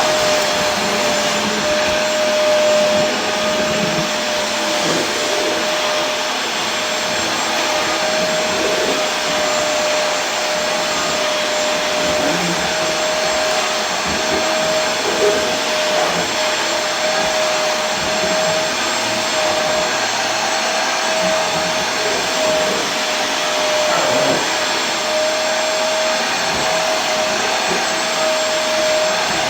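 Vacuum cleaner running steadily, a loud even rushing of air with a steady high whine from the motor.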